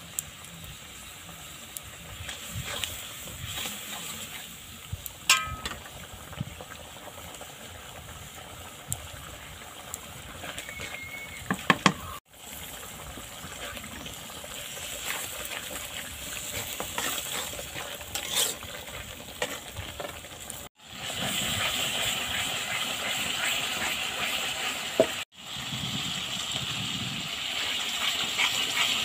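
Spice masala frying in oil in a black iron kadai: a crackling sizzle and bubbling, stirred and scraped with a spatula, with a few sharp knocks of the spatula. The sizzle grows louder and denser in the last third, and the sound cuts out briefly a few times.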